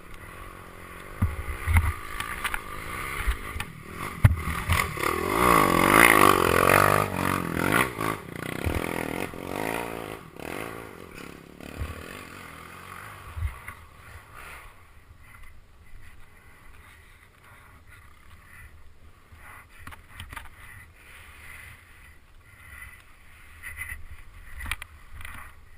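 Off-road enduro motorcycle passing by. Its engine note swells, is loudest about six seconds in, then fades away, with low thumps of wind on the microphone throughout.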